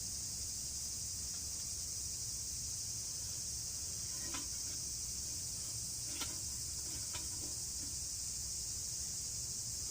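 Steady high-pitched chorus of insects such as crickets, unbroken throughout, with a few faint clicks about halfway through.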